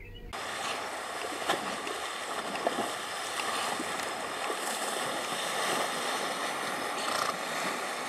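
Horses wading and running through a river, churning the water: a steady rush of splashing with a few sharper splashes.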